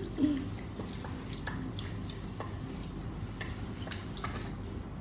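Faint, scattered small clicks and taps of people eating at a table, with chewing and dishes, over a low steady hum.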